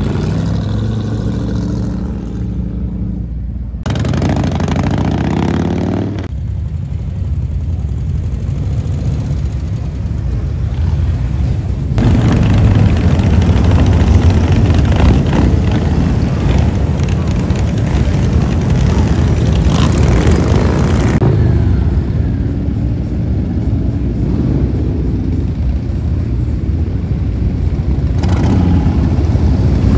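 Motorcycle engines running and revving in a street, one bike after another, with pitch rising and falling as they throttle up. The loudest stretch is from about twelve to twenty-one seconds in.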